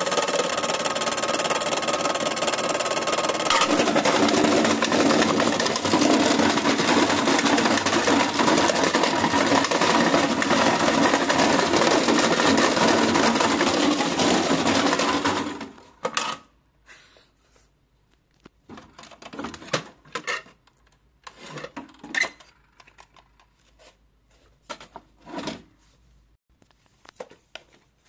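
AEG washing machine running hard with a dense, fast mechanical rattle, which cuts off suddenly about 15 seconds in; scattered knocks and clicks follow.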